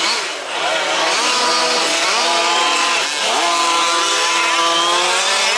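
Several 1/5th-scale RC off-road trucks' small two-stroke petrol engines racing together, revving up and down as the throttle is eased off and reapplied. There are brief drops in pitch about half a second in and again about three seconds in, each followed by rising revs.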